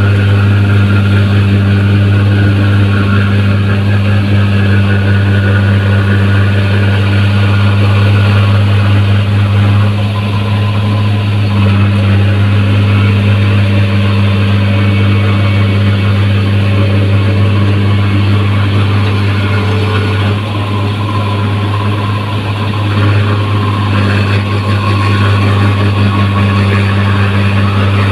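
New Holland 1545 combine harvester running steadily: a loud, even engine drone, briefly a little quieter about twenty seconds in.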